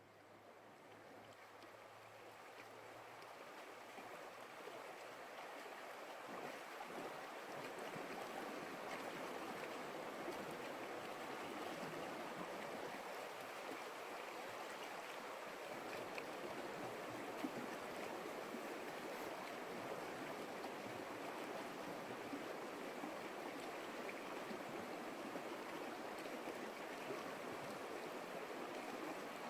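Stream water flowing with a steady rushing sound that fades in over the first several seconds.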